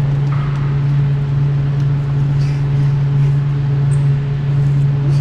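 Steady low mechanical hum with a few fainter higher tones above it, unchanging throughout.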